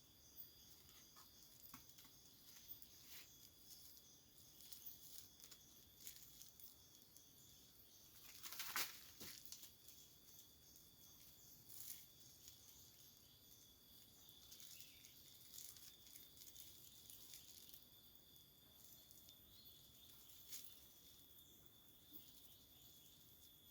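Faint, steady high-pitched drone of forest insects, with scattered light crackles and one louder rustle about nine seconds in.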